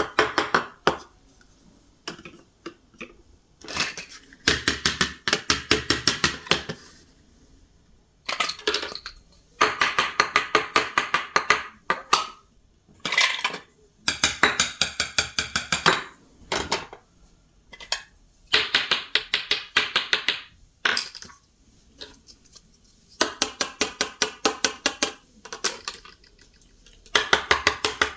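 Small plastic toy kitchenware clattering in repeated bursts of quick clicks, each burst a second or two long with short pauses between.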